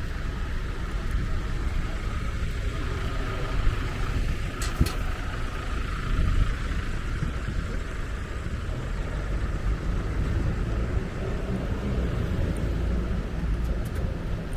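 Double-decker bus in motion, heard from inside: a steady low rumble of engine and road noise, with a brief click about five seconds in.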